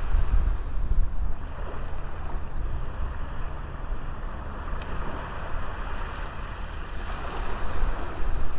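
Sea waves washing onto a small beach, a steady rush of surf that swells near the end, with a low rumble of wind on the microphone.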